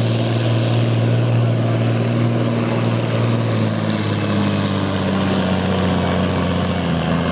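Farm-stock pulling tractor's diesel engine running hard under full load as it drags the brake sled down the track. About four seconds in, the engine note drops a little as it is pulled down under the load.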